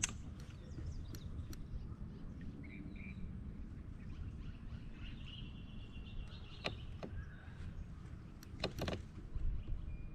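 Low, steady wind rumble on an action-camera microphone, with a few sharp knocks about two-thirds of the way in and faint bird chirps.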